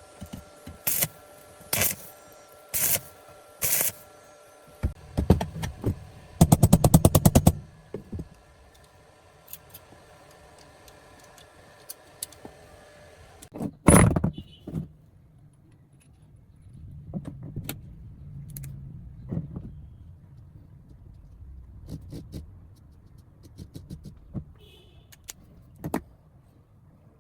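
Workshop handling sounds: four sharp strikes about a second apart, then a quick rattling burst, one loud knock midway, and scattered clanks and bumps.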